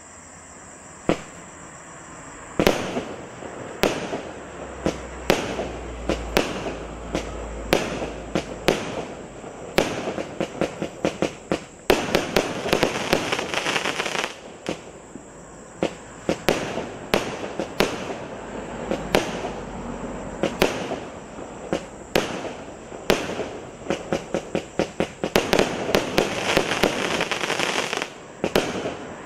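A 49-shot, 0.8-inch fireworks cake firing: a long string of sharp bangs beginning about a second in, at times several a second. In the busiest stretches a crackle fills the gaps between bangs.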